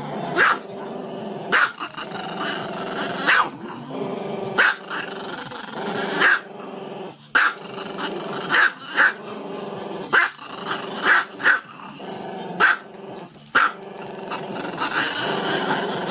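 Small black-and-tan dog growling continuously with its head raised, breaking into short sharp barks about once a second.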